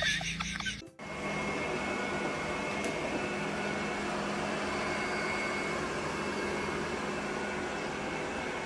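A steady mechanical hum with a faint high whine, starting abruptly about a second in after a short louder sound is cut off.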